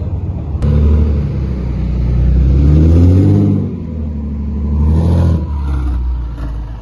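A car engine accelerating hard: a sharp start just over half a second in, the note climbing for a few seconds, dropping back, then climbing again briefly before fading away.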